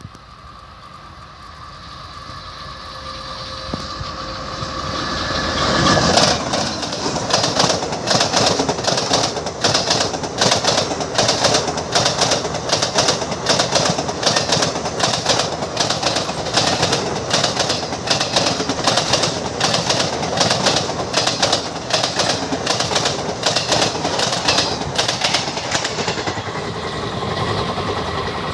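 Express passenger train crossing an open iron rail bridge at speed. A rumble builds over the first six seconds, then a rapid, continuous clatter of wheels over the bridge rails fills the rest, easing slightly near the end.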